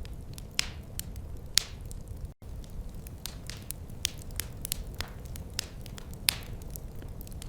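Wood fire crackling in a fireplace: irregular sharp pops and snaps over a steady low rumble of the flames. The sound cuts out for a split second about a third of the way in.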